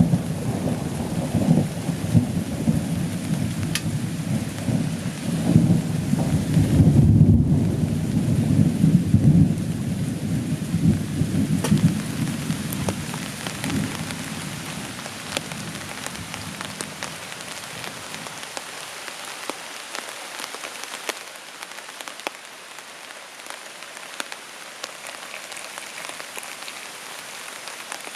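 Thunder rumbling long and low over steady rain, loudest about seven seconds in, then dying away by about halfway. Rain keeps falling throughout, with separate drops pattering.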